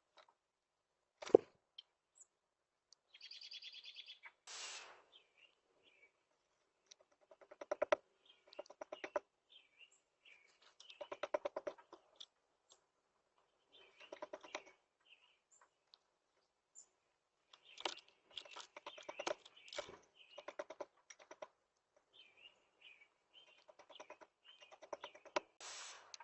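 Small birds chirping in short high calls, with several bursts of rapid, even tapping and brief wing flutters.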